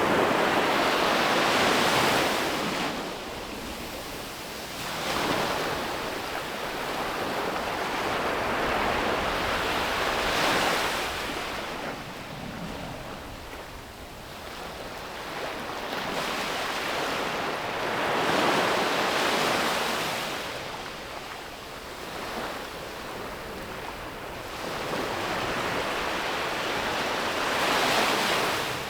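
Sea waves breaking on a beach: surf rising and falling in about five swells, each one building, breaking and washing back.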